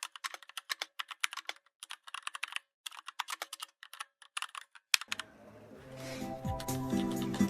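Computer keyboard typing: quick runs of key clicks broken by short pauses. About five seconds in the typing stops and music fades in, growing louder.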